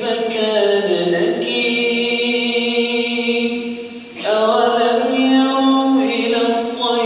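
A man reciting the Quran in a slow melodic chant, holding long drawn-out notes, with a short breath about four seconds in before the voice returns.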